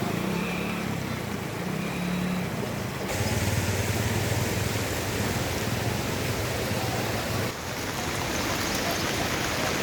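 Steady outdoor background noise with a low hum, changing abruptly about three seconds in and again near seven and a half seconds as one scene's sound gives way to another.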